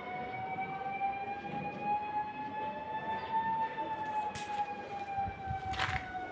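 A siren wailing in one long, slow rise and fall in pitch, with a few sharp knocks late on.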